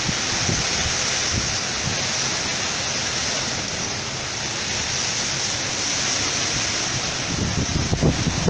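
Steady rushing noise of tropical-storm wind and water, with low gusts buffeting the microphone near the end.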